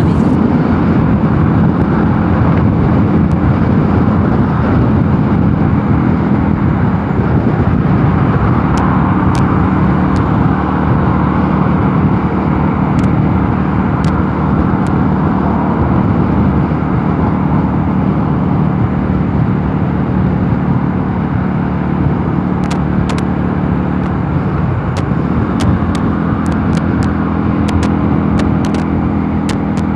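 Mondial Nevada 250 motorcycle engine running steadily at road speed, heard under heavy wind rush on the rider's microphone. The engine note dips briefly about 25 seconds in, then settles back to its steady pitch.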